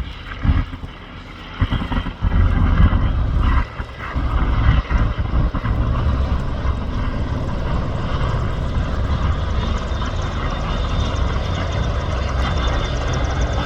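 MCH-101 helicopters running after landing, a steady rush of rotor and turbine noise that settles in after about four seconds, following an uneven low rumble at the start.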